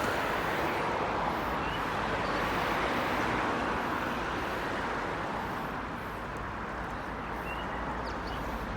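Steady road and wind noise of a vehicle on the move, an even rushing sound with no distinct engine note.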